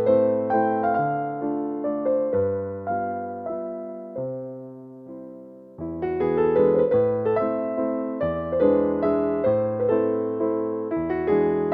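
Background music: an electric piano plays a gentle melody of struck, decaying notes. It thins out and fades about four seconds in, then comes back fuller about six seconds in.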